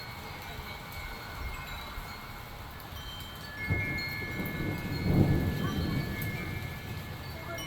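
Thunder rumbling, swelling about halfway through, peaking briefly and then dying away, over steady rain, while wind chimes ring throughout.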